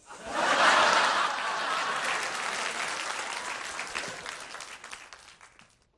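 Audience applause that breaks out suddenly, is loudest within the first second, and gradually dies away over several seconds.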